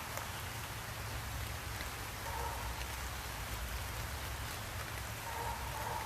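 Light rain falling steadily, with scattered drop ticks over a low rumble. A short faint tone sounds twice, near the middle and near the end.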